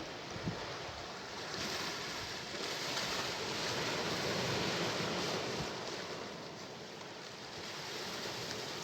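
Sea waves surging: a rush of water that swells about a second and a half in and eases off a few seconds later. A brief low thump comes just before the swell.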